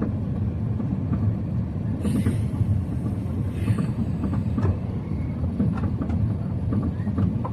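Steady low rumble inside an Airbus A380-800's passenger cabin on final approach, from its engines and the airflow over the airframe. A brief hiss rises over it about two seconds in and again near four seconds.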